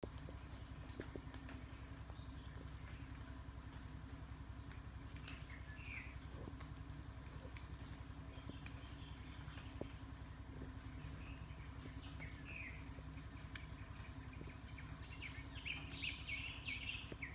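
Insects droning in a steady high chorus, with birds chirping now and then and a run of rapid chirps near the end, over a low steady hum.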